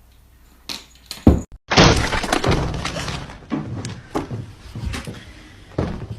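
A loud crash of something breaking, with clattering that fades over about a second and a half, followed by several separate knocks.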